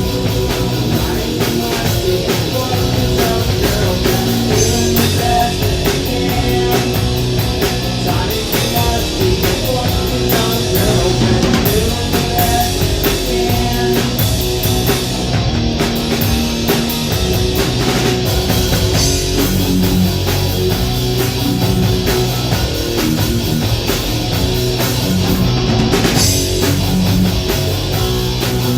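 Live rock band playing: distorted electric guitar and bass over a pounding drum kit, with no vocals.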